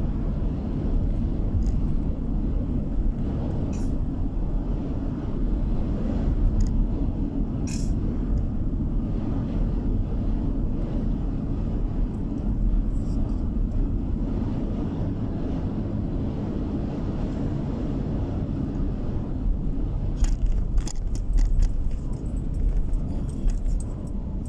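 A car driving on the road, heard from inside the cabin: steady low road and engine rumble, with a few sharp clicks and ticks, several close together near the end.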